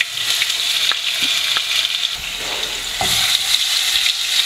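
Ginger-garlic paste sizzling and crackling in hot oil with mustard and cumin seeds in a non-stick pan, as a slotted spatula stirs it. The sizzle grows a little louder about three seconds in, once the paste is stirred through the oil.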